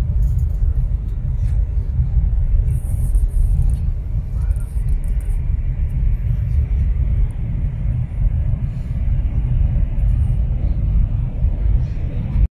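Steady low rumble of a Fuxing high-speed train running at speed, heard inside the passenger carriage. It cuts off suddenly at the very end.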